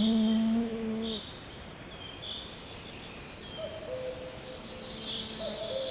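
Songbirds chirping and singing in high, soft notes throughout. A sudden low, steady tone lasting about a second cuts in at the start and is the loudest sound. Fainter, higher steady tones follow near the end.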